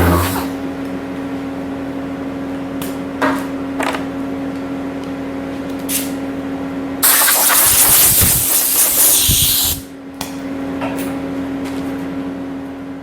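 Angle grinder with a flap disc running with a steady whine and occasional clicks. From about seven to ten seconds in it grinds hard against old fiberglass resin with a loud, hissing rasp. Near the end it starts to wind down.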